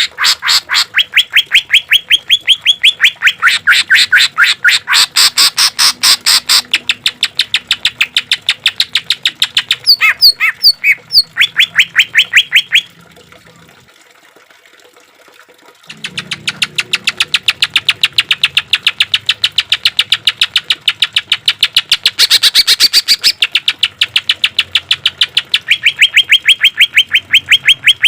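Cucak ijo (green leafbird) singing a long rapid-fire series of loud, sharp repeated notes, several a second, the 'tembakan' bursts. The series stops for about three seconds in the middle, then resumes.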